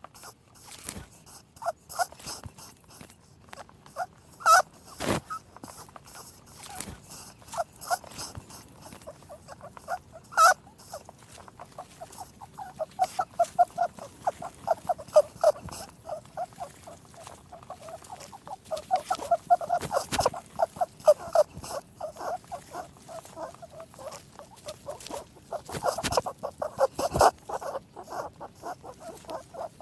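Rabbit noises: fast runs of short clicking and squeaking sounds, with a few sharper, louder clicks between them.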